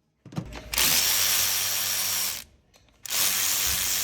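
Cordless electric ratchet running in two steady spells of a second or two each, spinning out a bolt on the car's engine mount.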